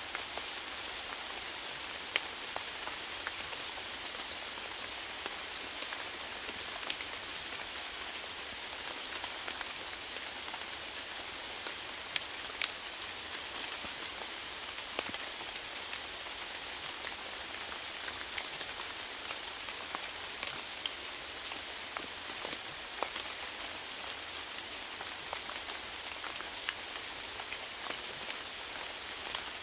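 Steady rainfall, an even hiss with scattered louder drops ticking on a surface.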